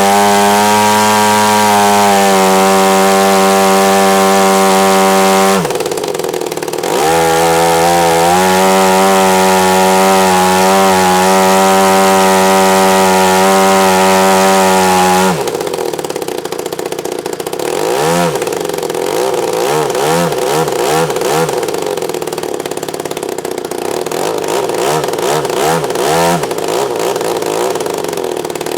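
Two-stroke engine converted from a Husqvarna chainsaw, spinning a 22x13 model-aircraft propeller at full throttle with a steady high pitch. It is throttled back briefly about five and a half seconds in and comes back up, then about fifteen seconds in it drops to a lower, unsteady speed with small blips of throttle.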